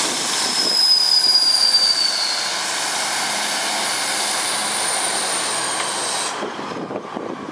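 Arriva diesel multiple unit running past on a curve, its wheels squealing in high, slowly falling whistles over a steady rumble and rattle of the carriages. The squeal and much of the noise drop away about six seconds in as the train draws off.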